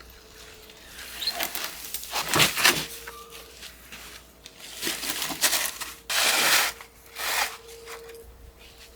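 Handling noises: irregular rustling and crinkling with a few knocks, the loudest a longer rustle a little after six seconds in.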